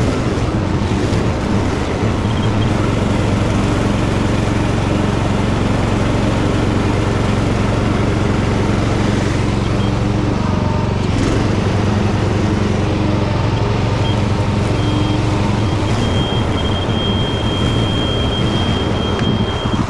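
Tractor engine running steadily while mowing. A thin high steady tone comes and goes in the last few seconds, and there is one brief sharp knock about halfway through.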